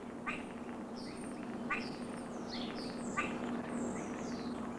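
Wild birds calling: three quick downward-sweeping calls about a second and a half apart, with thinner high chirps between them, over a faint steady hum.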